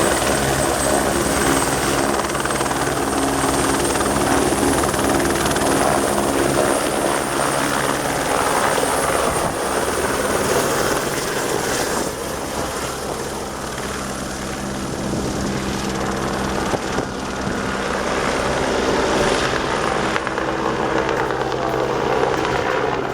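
Helicopter running close by, with rapid rotor chop, a steady engine drone and a thin high whine throughout.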